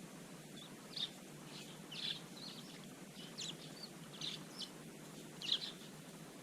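Small garden birds chirping: about ten short, irregular chirps, over a steady low background rumble.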